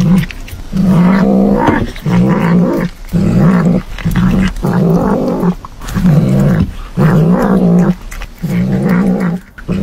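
Tabby cat making aggressive growling "nom nom" noises as it bites into corn on the cob: a string of short growls, roughly one a second, with brief pauses between.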